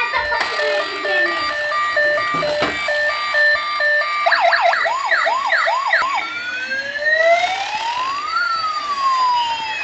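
Toy police cars' electronic sirens. A repeating stepped tone pattern runs for about four seconds, then switches to a fast warble of about three to four swoops a second, then to a slow wail rising and falling, with a second siren's sweep crossing it near the end.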